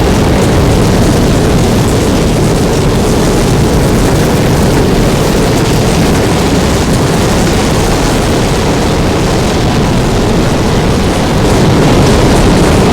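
Loud, steady roar of violent wind buffeting the microphone, heaviest in the low end, with no let-up.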